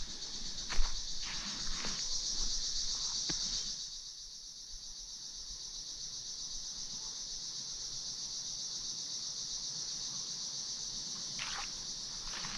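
A steady high chorus of insects, louder for the first few seconds and then softer. A few footsteps on the trail sound in the first few seconds and once more near the end.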